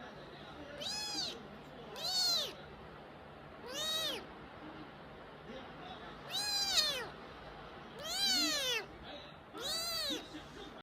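A cat meowing over and over: six separate meows, each rising then falling in pitch, about every one and a half to two seconds.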